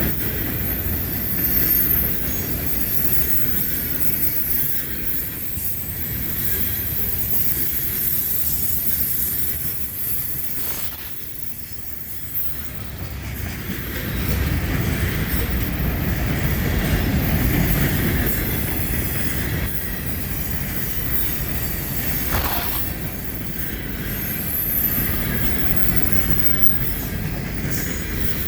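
CSX freight train cars rolling past: a steady rumble of steel wheels on the rails, with short high-pitched squeals now and then.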